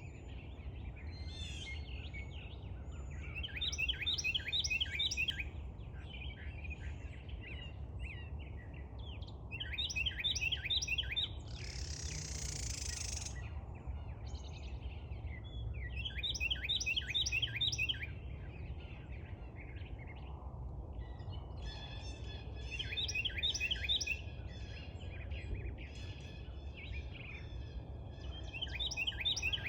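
A small songbird singing loudly, repeating a short phrase of rapid notes about every six seconds, over a steady low rumble. A brief hiss comes about twelve seconds in.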